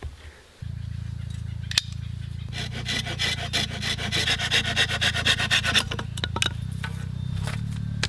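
Hand saw cutting through wood in fast rasping strokes, over a steady low hum that starts suddenly just under a second in.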